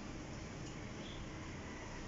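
Steady low background hiss of room noise, with a faint brief high chirp about a second in.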